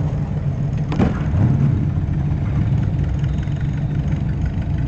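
Car engine idling with a steady low rumble. About a second in there is a sharp knock, and just after it a brief small rise in engine pitch.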